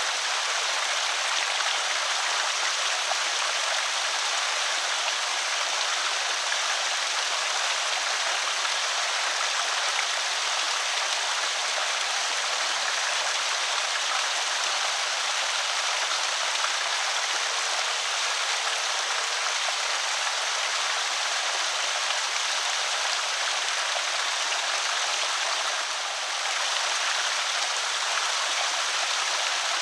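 Water pouring over a small creek spillway, a steady splashing rush.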